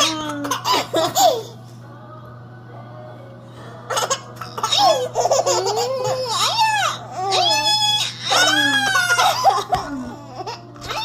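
Baby laughing and squealing in high, gliding bursts: a short burst at the start, a pause of about two seconds, then a long run of laughter from about four seconds in.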